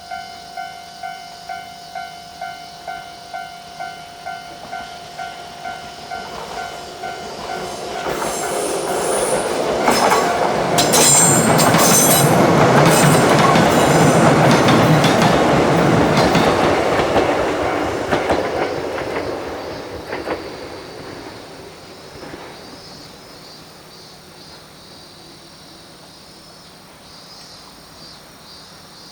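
A level-crossing warning bell dings in an even rhythm of about three a second, then stops. A train then passes close by, growing loud and dying away, with wheel squeal and clicking from the wheels on the rails as it goes by.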